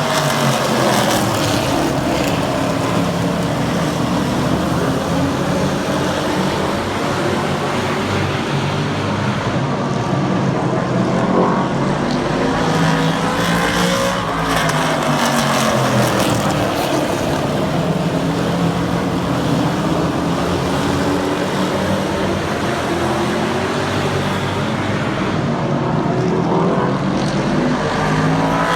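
Super trucks racing around a short oval track, their engines running hard. The engine pitch sweeps up and down over and over as the trucks lap and pass.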